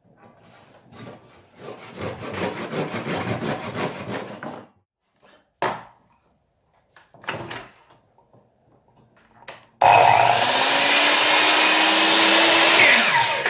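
A pine block being worked by hand: a couple of seconds of rapid rubbing or sawing strokes, then a few separate knocks. About ten seconds in, an electric power tool starts, runs steadily for about three and a half seconds and then winds down.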